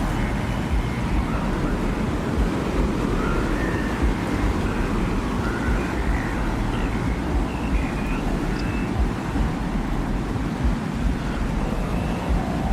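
Desert wind ambience: a steady low rushing rumble, with faint brief whistling tones drifting above it now and then.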